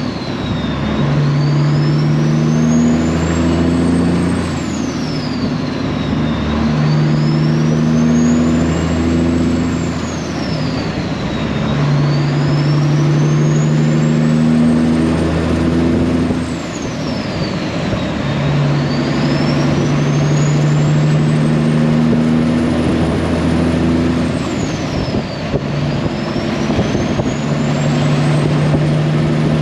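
Straight-piped Peterbilt 389 semi truck pulling through the gears: the engine note climbs and then drops back at each of about five shifts. A high whistle rises with the revs and falls away at every shift.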